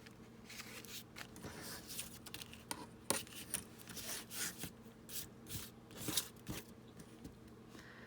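Paper rustling with a run of light taps and clicks, from paper, a ruler and a cutter being handled while trimming paper.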